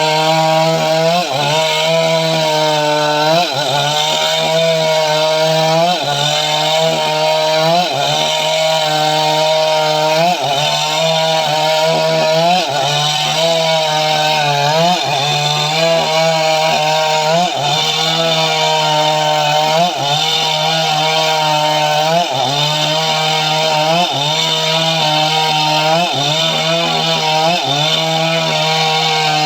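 Stihl MS 382 two-stroke chainsaw running at high revs under load while cutting dry mahogany. The engine note dips and recovers about every two seconds as the bar bites into the wood.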